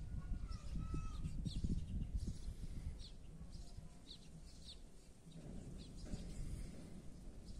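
Birds chirping in short, high calls, over a low rumble that fades after the first couple of seconds.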